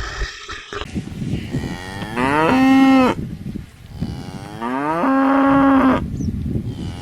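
A cow mooing twice. Each low call rises in pitch and then holds steady for about a second.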